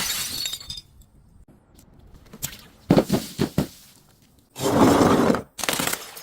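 Glass breaking and being crushed in several crunching bursts: a cluster of quick sharp cracks about three seconds in, then two longer crunches near the end.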